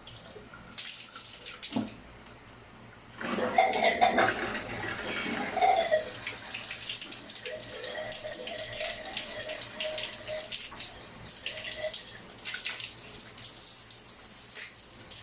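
Water running from a newly installed exposed shower valve. It dips briefly about two seconds in, then comes back stronger about three seconds in and keeps flowing.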